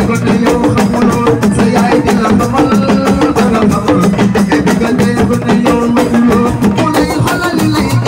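Senegalese assiko band music: dense, rapid drum strikes over a steady bass line.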